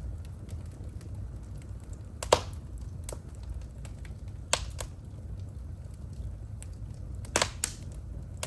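Wood fire in a home fireplace crackling: a low steady rumble with a handful of sharp, scattered pops, the loudest about two seconds in and a quick pair near the end.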